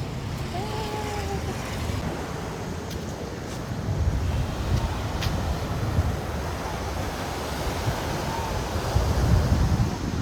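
Wind buffeting the microphone over a steady rush of waves, gusting louder twice.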